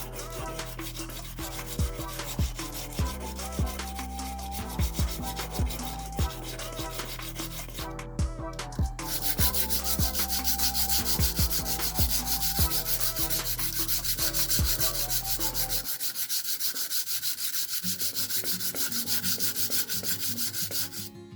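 Steady abrasive rubbing, like a tool scraping or sanding against metal or wood, continuing with little pause.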